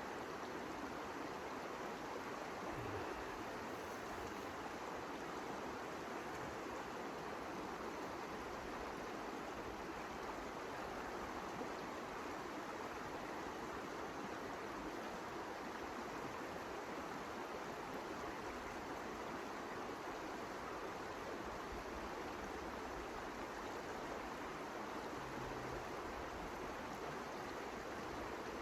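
Steady, unbroken rushing noise of a winter storm: wind with blowing snow.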